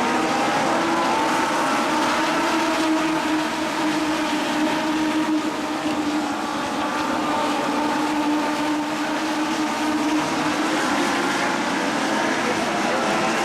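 Legends race cars running at speed on an oval track, their Yamaha motorcycle engines at high revs. Several engine notes overlap, their pitch rising and falling throughout.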